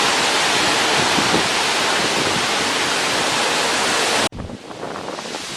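Tropical-storm wind gusting hard: a loud, steady rush with wind buffeting the microphone. It cuts off suddenly about four seconds in, leaving quieter wind with a few faint rustles.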